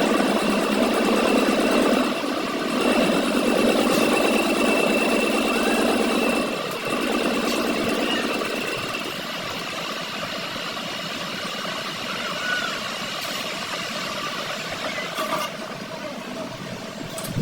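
Machinery running steadily with a thin high whine, louder for the first eight seconds or so, then settling quieter.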